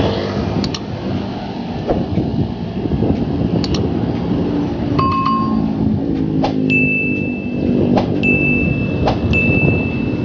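Road traffic and wind rumble heard from a moving bicycle, with an engine drone setting in about four seconds in. In the last few seconds come three short, steady electronic beeps, evenly pitched and high.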